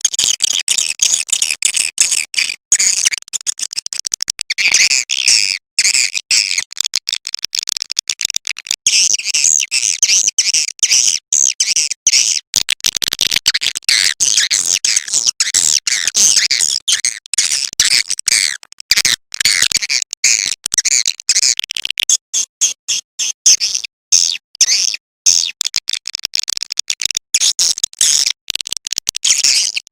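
Edible-nest swiftlet call recording: dense, rapid high-pitched twittering chirps with only brief gaps, going on without a break. It is a lure call of the kind played in swiftlet houses to draw the birds in to roost and nest.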